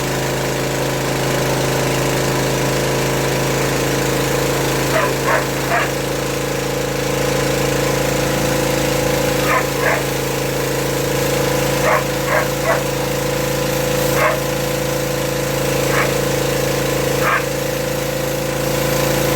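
A dog barking and yipping in short groups of one to three, about a dozen times, over the steady running of the jet washer's small petrol engine.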